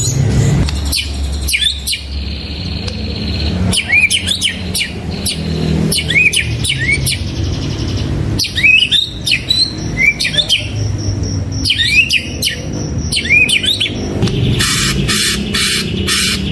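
White-rumped shama singing: a series of short, quickly sweeping whistled notes repeated over and over. Near the end a rapid buzzy pulsing sets in, about four pulses a second, over a low steady rumble.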